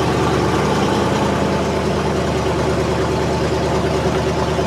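1969 Buick Skylark Custom's engine idling steadily, still early in its warm-up after a cold start from six months of sitting.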